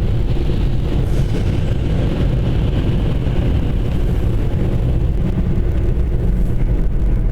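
Automatic car wash machinery heard from inside the car: a steady, loud rushing rumble of water spray, brushes or air blowers on the car body.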